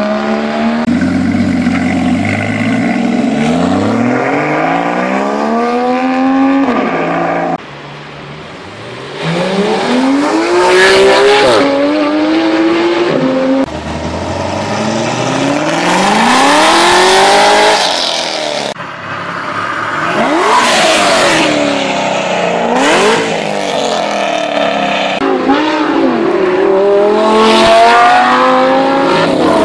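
Supercar engines revving and accelerating hard, their pitch climbing and dropping repeatedly through gear changes. The sound cuts abruptly from one car to the next several times.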